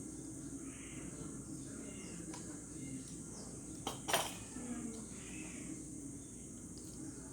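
Faint work-area background with a steady high-pitched hiss, and one sharp click about four seconds in.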